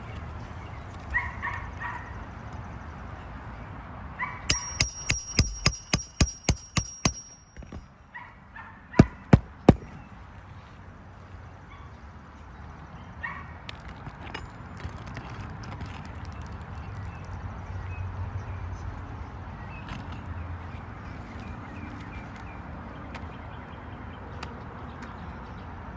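Sharp hammer blows: a quick run of about ten strikes, roughly three a second, then after a short pause three louder blows in quick succession. Between them are a few short calls from an animal or bird.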